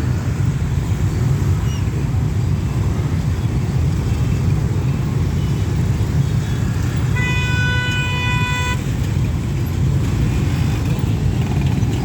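Steady rumble of road traffic at a level crossing, with a single horn honk of about a second and a half a little past the middle.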